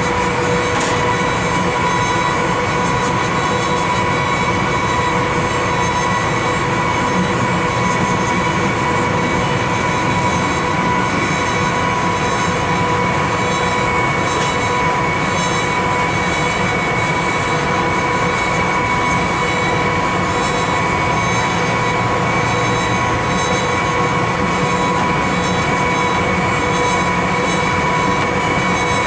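Amtrak passenger train running slowly, heard from aboard: a steady rumble of wheels on rail with a constant high-pitched whine over it.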